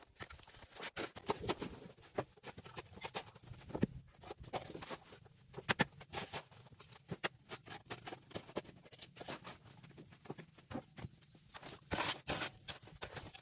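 Irregular clicks, scrapes and rustles of hands-on work, in uneven bursts, with a denser run of scraping near the end.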